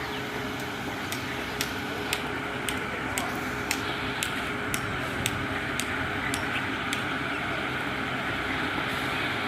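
JCB backhoe loader's diesel engine running steadily, with a sharp regular click about twice a second that stops about seven seconds in.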